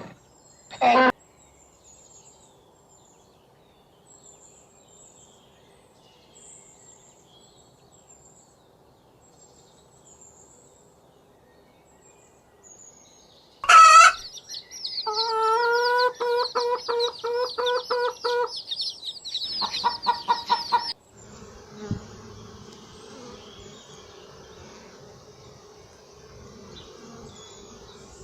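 A chicken calling loudly for about six seconds in the second half, a rapid run of repeated pitched notes after a sharp start. Before it there is a long faint stretch, and after it a steady low background.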